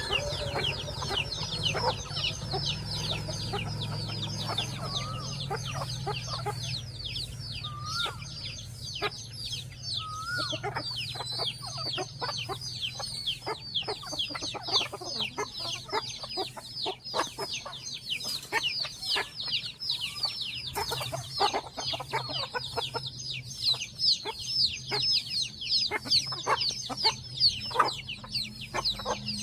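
A brood of chicks peeping constantly, a dense stream of short, high, falling cheeps, over a hen clucking as she feeds them. A low hum underneath fades out in the first few seconds.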